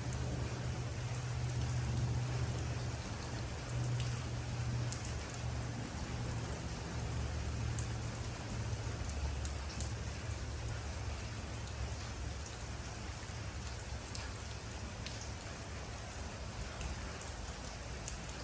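Steady rain falling, with scattered sharper drips striking close by. A low rumble of thunder is strong over the first half and fades away after about ten seconds.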